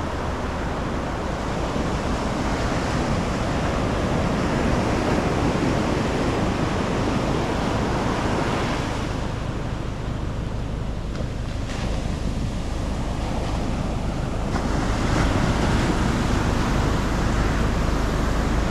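Ocean waves breaking and washing on the beach in a steady, swelling wash, with wind rumbling on the microphone, stronger in the last few seconds.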